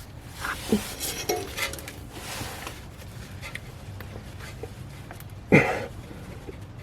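Scattered light metallic clinks and handling knocks from working by hand under a car, with one louder short sound, falling in pitch, about five and a half seconds in.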